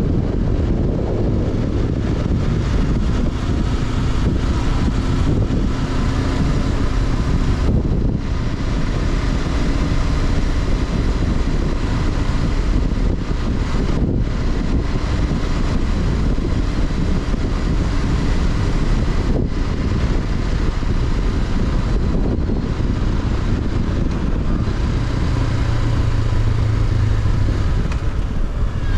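Honda CB500X's parallel-twin engine running under way, heard onboard with wind rushing past the microphone. The engine note briefly drops away a few times and settles into a steadier low hum near the end.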